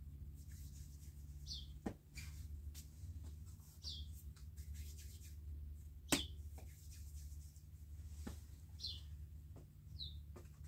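A small bird gives a short, high, falling chirp every few seconds, over soft taps of hands shaping balls of bread dough; a sharp click about six seconds in is the loudest sound.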